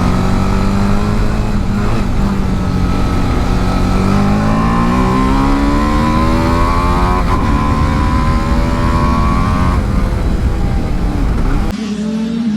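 TVS Apache RR 310's single-cylinder engine accelerating hard on track, its pitch climbing steadily for several seconds with a brief break partway, then falling as the throttle closes, over heavy wind rush on the microphone. Near the end the sound cuts abruptly to a quieter engine note.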